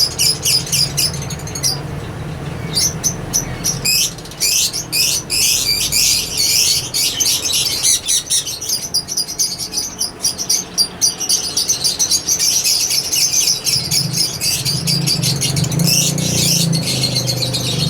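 Caged yellow ringneck parakeets chirping and chattering in a dense run of rapid high calls, over a low steady hum that grows louder near the end.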